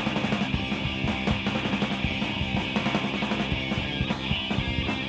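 Live punk rock band playing an instrumental passage: distorted electric guitars, bass and fast, driving drums.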